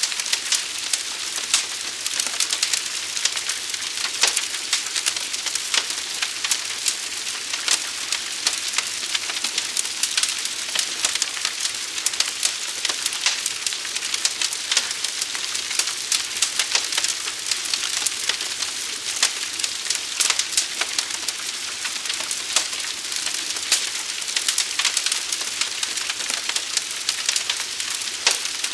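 Wood fire burning, with a steady hiss and dense, constant crackling and popping.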